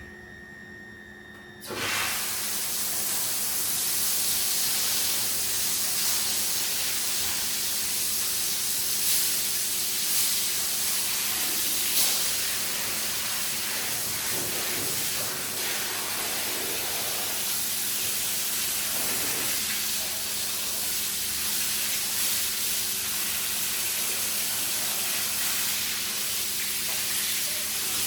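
High-pressure water spray hissing steadily onto a muddy shag rug, starting about two seconds in, over a steady low hum.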